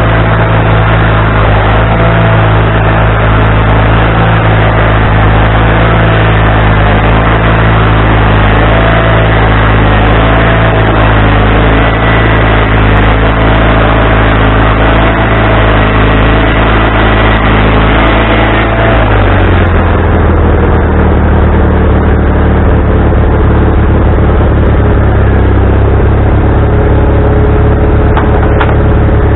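Wood-Mizer LT40HD band sawmill running under load, its engine going steadily with a high whine over it. About 19 seconds in the whine stops and the engine note drops to a lower, steadier pitch.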